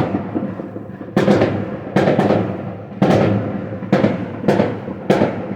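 New Year's Eve fireworks going off: about eight sharp bangs in irregular succession, each dying away quickly.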